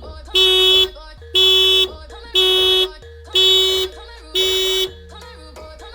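Car horn sounding in a run of short, identical blasts about once a second, five times, as a car alarm does, stopping about five seconds in.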